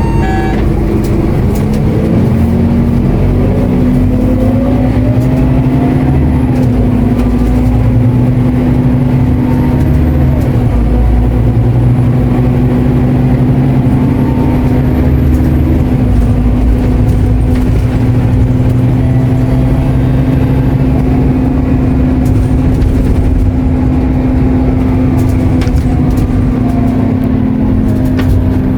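Scania K230UB diesel city bus under way, heard from on board: the engine and driveline run with a steady whine throughout, and the pitch rises in the first few seconds as the bus accelerates.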